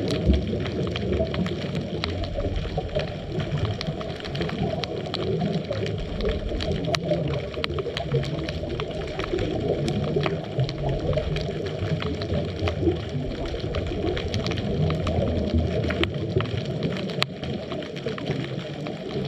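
Underwater ambience picked up by a GoPro in its dive housing: a steady, muffled low rush of moving water with faint scattered clicks and crackles.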